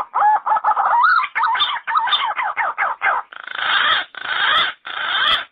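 Yellow-footed green pigeon calling: a run of quick, wavering whistled notes lasting about three seconds, then three harsher, rougher notes, cutting off suddenly near the end.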